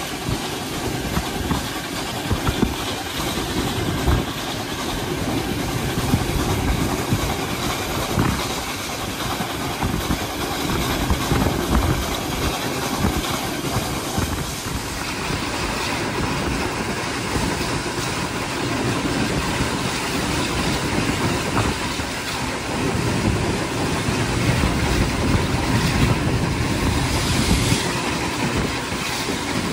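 Railway carriage running along the line, its wheels clicking over the rail joints in a steady rhythm over the rumble of the train, heard at an open window.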